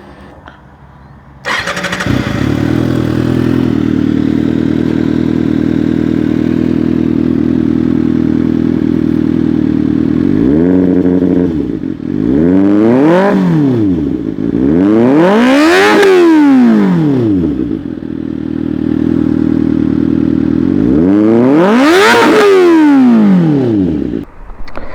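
2024 Kawasaki ZX-6R inline-four running through an IX race end can with a link pipe and decat (catalytic converter removed). It sets in suddenly about a second and a half in and idles steadily. From about ten seconds in it is revved four times, a short blip and then three big revs that climb and fall back to idle.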